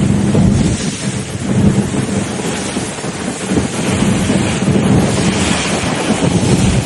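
Motorboat engine running steadily under heavy wind buffeting on the microphone.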